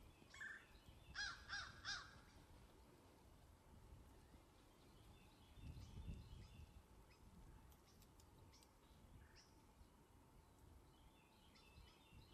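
A crow cawing about four times in quick succession in the first two seconds, followed by faint scattered bird chirps.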